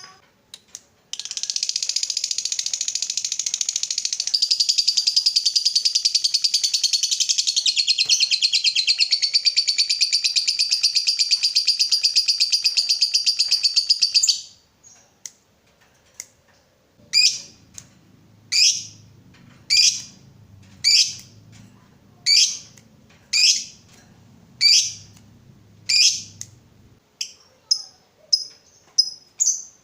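Lovebird singing a long ngekek: a loud, rapid chattering trill held for about thirteen seconds that stops suddenly, followed by single sharp chirps about once a second and quicker short chirps near the end.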